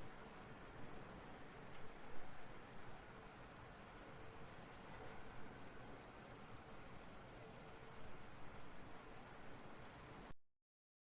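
Insect stridulating: a continuous high-pitched trill that starts abruptly and cuts off suddenly about ten seconds in.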